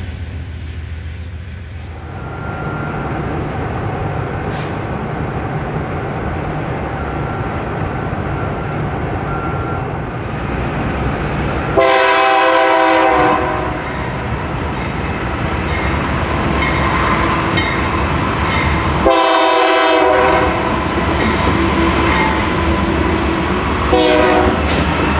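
A train running by with a steady rolling rumble of wheels on rail, its multi-tone air horn sounding three times: a blast of about a second and a half near the middle, a second one about seven seconds later, and a third starting near the end.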